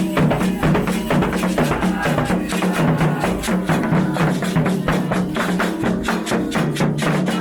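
Candomblé ritual percussion music: drums with a sharp clacking percussion over them, in a fast, steady rhythm.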